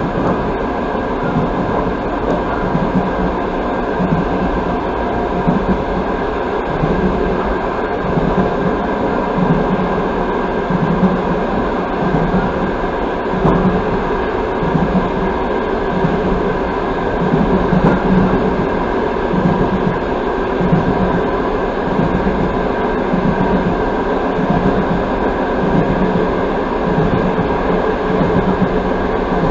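Passenger coach of an express train running at speed, heard from inside the carriage: steady wheel and track noise with a hum of several steady tones and an uneven low throb.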